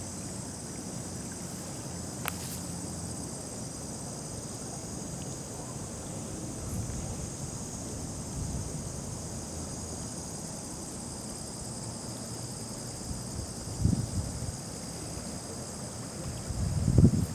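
A steady, high insect chorus over a low wind rumble on the microphone, with a sharp click about two seconds in and gusty thumps of wind on the microphone near the end.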